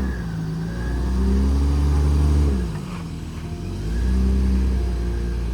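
Four-wheel-drive vehicle's engine revving under load. It rises, eases off about three seconds in, then climbs again.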